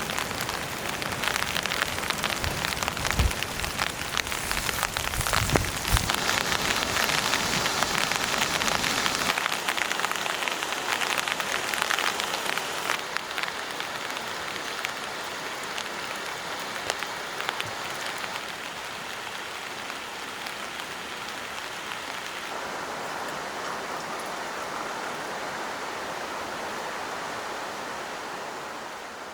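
Steady rain falling, a dense hiss with many close drops ticking. It is heavier in the first part, with a couple of dull thuds, and the sound changes abruptly about nine seconds in and again past twenty seconds, as at cuts between shots.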